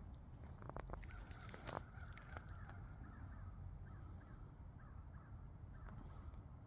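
Birds calling over and over in short repeated calls, with a few sharp knocks about a second in and a steady low rumble underneath.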